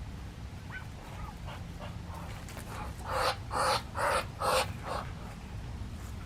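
A dog barking four times in quick succession, about half a second apart, over a steady low rumble.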